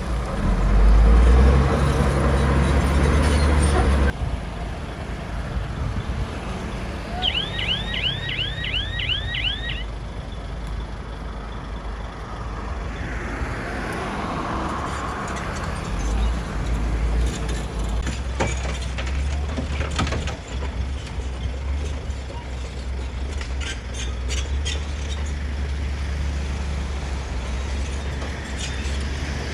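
Bulldozer's diesel engine running under load, loud for the first four seconds, then dropping suddenly to a steadier, quieter running. A quick run of about eight high chirps comes a few seconds later, and scattered metallic clanks come later on.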